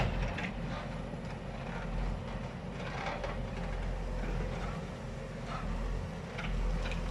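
Heavy vehicle engine running steadily with a low rumble, with scattered brief clatter over it.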